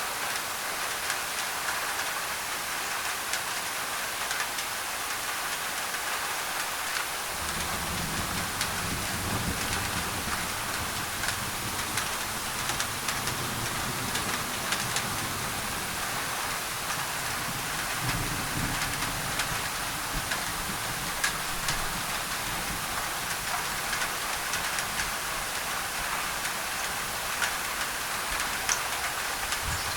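Rain on a thin tin roof, a steady hiss scattered with small drop ticks. From about a quarter of the way in, a low roll of thunder rumbles on and off under it.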